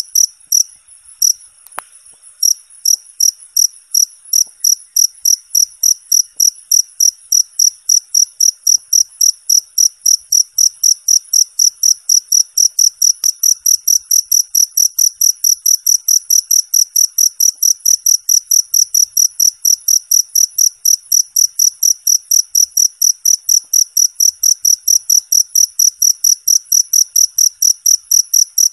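Cricket chirping in a fast, even, high-pitched pulse train, about five chirps a second, with a short break about a second in.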